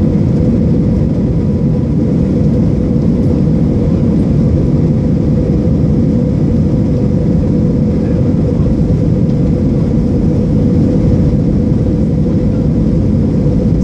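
Cabin noise inside an Airbus A320 airliner, its jet engines and the airflow making a loud, steady rumble with a constant hum running through it.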